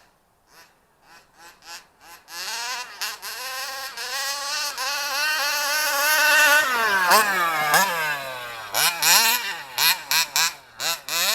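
HPI Baja SS's 29cc two-stroke engine sputtering a few times, then catching about two seconds in and running steadily at a high rpm. Its pitch drops and wavers after about seven seconds, and near the end it is revved in quick throttle blips.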